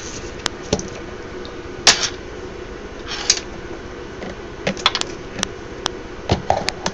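Scattered sharp clicks and a couple of short scratchy bursts from a computer keyboard and mouse, irregular and a second or so apart, over a steady faint hum.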